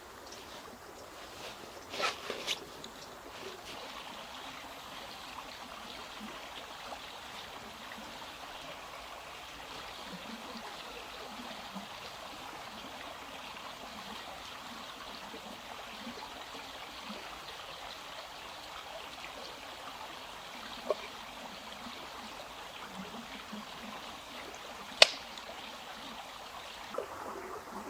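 Steady trickling, running water, with a few sharp knocks or clicks over it; the loudest comes about 25 seconds in.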